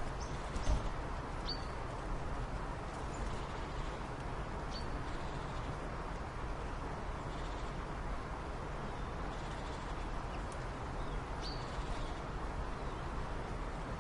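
Steady low rumble of outdoor ambience with a few short, high bird chirps now and then.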